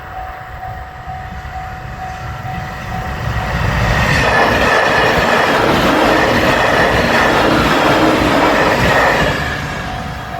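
Level crossing alarm ringing in an evenly repeating ding. From about four seconds in to about nine seconds, a JR Shikoku 8000 series limited express electric train passes over the crossing and its loud running noise drowns out the alarm, which is heard again near the end.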